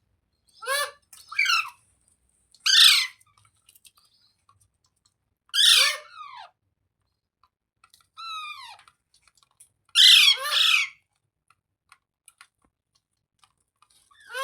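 Green ringneck parrot (rose-ringed parakeet) giving a series of short, shrill squawks, some in quick pairs, each call falling in pitch, repeated every two or three seconds.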